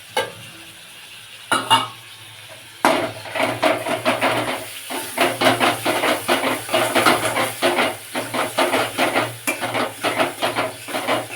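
A spatula stirring and scraping masala in a kadai of sizzling mustard oil: tomato paste and ground spices being fried down with onion and ginger-garlic paste. Two light knocks come first, then rapid, continuous scraping strokes from about three seconds in.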